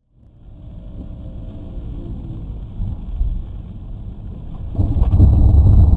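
Car driving on a wet road, heard through a dash camera: a steady low rumble of road and engine noise with a faint hiss, getting much louder about five seconds in.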